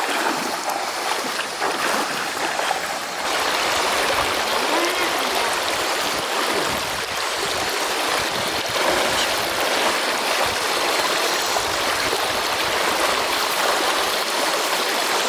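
Mountain stream water rushing over rocks, a steady, fairly loud noise.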